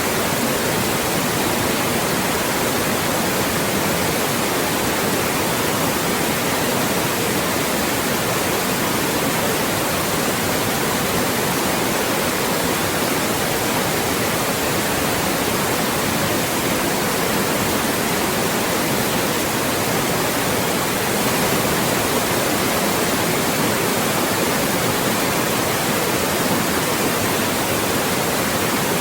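Loud, steady synthetic white noise: an even hiss across the whole range with no changes or events.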